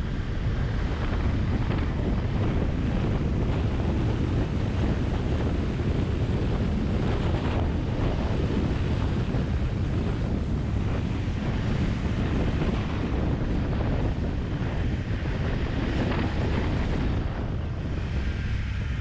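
Wind buffeting the microphone of a moving motorcycle: a steady low rushing, easing slightly near the end.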